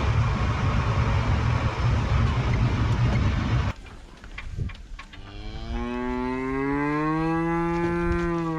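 Tractor engine running steadily, then cutting off suddenly a little under four seconds in. After a short pause a cow gives one long moo, its pitch rising and then levelling off, lasting about three seconds.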